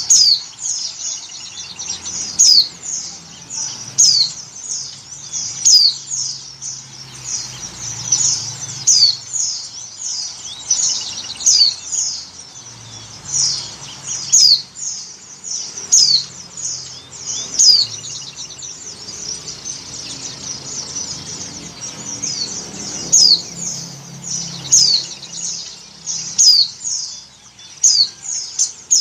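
Female white-eye (pleci) giving its breeding-condition call, the call that draws males: high, sharply falling chirps repeated every second or two, with softer fast twittering between them.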